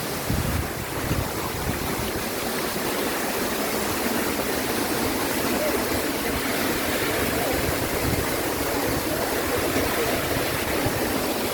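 Waterfall pouring into a deep plunge pool: a steady, unbroken rush of falling water.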